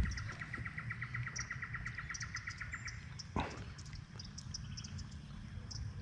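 A bird's fast trill of even, repeated notes, about ten a second, stopping about three seconds in, over faint high chirps from other birds. A thump right at the start and a single knock about three and a half seconds in.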